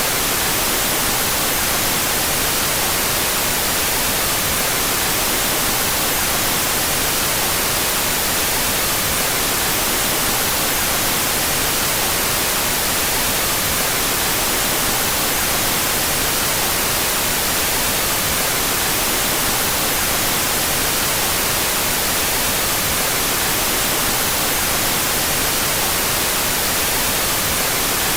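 Steady, unbroken white noise: an even hiss across the whole range, brightest in the treble, mixed with its two stereo channels out of phase.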